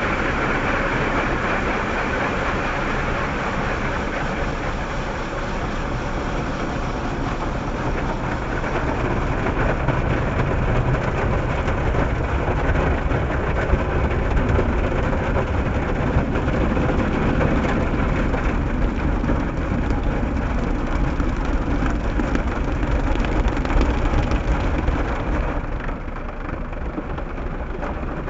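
Proton Waja's 1.6-litre CPS engine running, with a steady rumbling vehicle noise heard from inside the car's cabin, easing slightly near the end.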